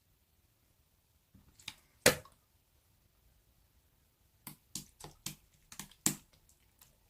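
Pink pearl slime pressed and squished by hand, giving sharp sticky clicks and pops: a single loud pop about two seconds in, then a quick run of about seven clicks a little past the middle.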